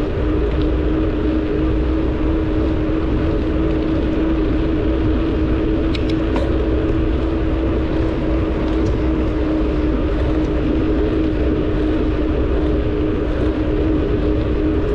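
Wind buffeting the microphone of a bicycle-mounted camera while riding, with a steady drone of one pitch from the rolling bike and a few faint ticks about six seconds in.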